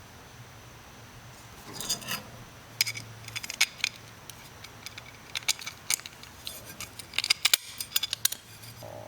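Hand tools and small metal parts clinking and scraping in irregular sharp clicks, starting about two seconds in, over a faint steady low hum.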